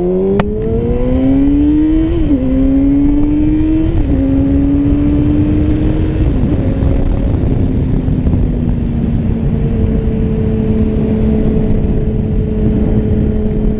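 Yamaha R6 inline-four sport bike engine pulling hard, its pitch climbing and dropping sharply at upshifts about two, four and six and a half seconds in. After that it holds a steady cruising note, with wind rushing over the microphone.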